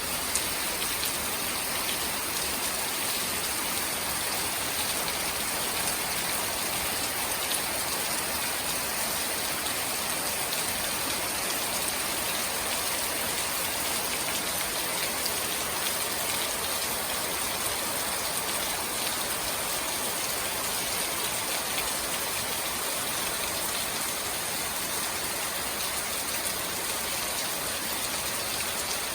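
Heavy tropical rain falling steadily, a continuous hiss of drops pattering on surfaces.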